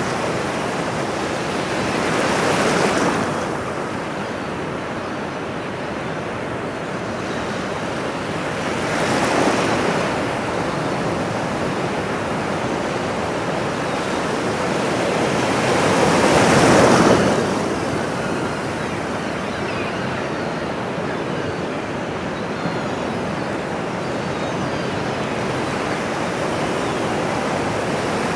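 Ocean waves breaking on a shore over a steady wash of surf, with three larger waves surging in about every seven seconds.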